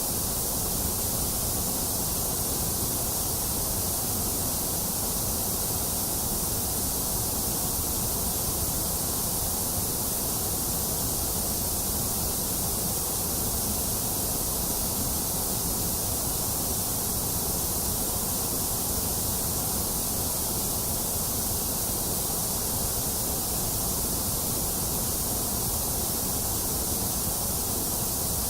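Steady white noise for sleep: an even, unchanging hiss with no breaks or events, brightest at the top with a slightly hollow middle.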